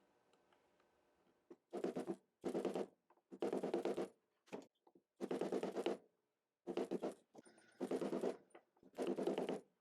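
Repeated scraping strokes, about one a second, seven in all with a short one in the middle: a metal straightedge slid along the fret tops of an acoustic guitar's fingerboard.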